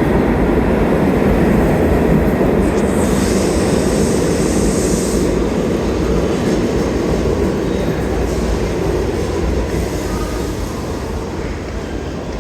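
New York City subway train rumbling along the platform, with a brief high hiss about three seconds in, growing gradually quieter in the second half as it moves off.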